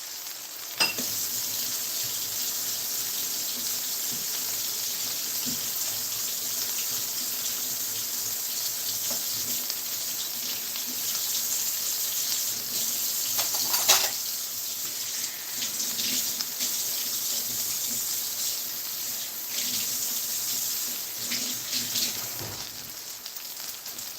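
Pancakes sizzling as they fry in a pan: a steady hiss with a few sharp clicks, the loudest about 14 seconds in.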